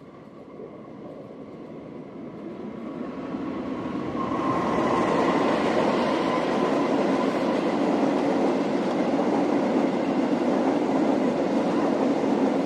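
Diesel-hauled passenger train approaching at speed and running past close by. The noise builds over the first four or five seconds, with a faint steady whine, then settles into a loud, even rumble of wheels on rails as the coaches pass.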